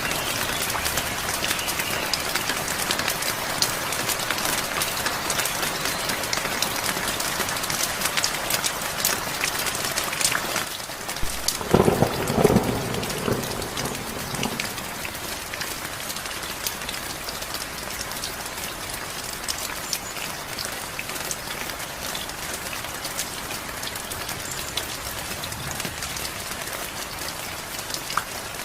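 Steady rain falling, an even hiss with many separate drops pattering sharply on a surface. About twelve seconds in comes a brief, loud, low thump lasting about two seconds, and after it the rain is slightly quieter.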